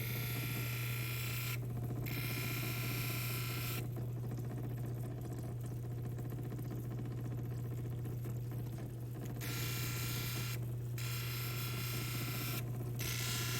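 Lapidary grinding machine running with a steady low motor hum, while an opal is pressed against the 280-grit wheel in stretches of one to two seconds, giving a hissing grind that stops each time the stone is lifted. The grinding pauses for about five seconds midway.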